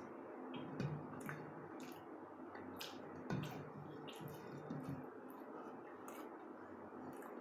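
Faint wet eating sounds of rice and curry being eaten by hand: soft squishes and scattered small clicks, over a low steady hum.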